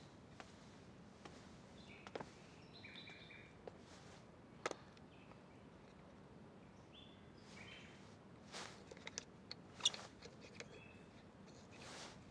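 Quiet room tone with a few short, high bird chirps and scattered small clicks and taps.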